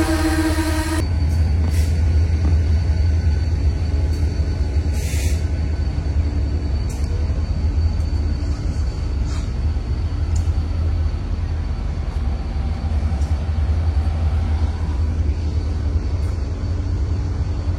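Steady low vehicle rumble with a few faint clicks. A pitched, music-like sound cuts off about a second in.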